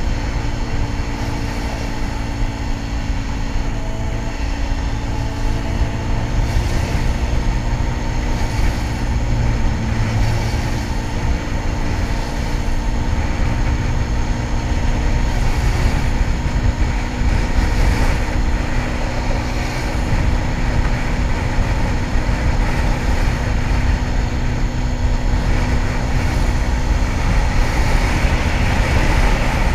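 Kawasaki ZX-10R sport bike's inline-four engine running at a steady cruise under heavy wind rush, with an even drone and no big revs.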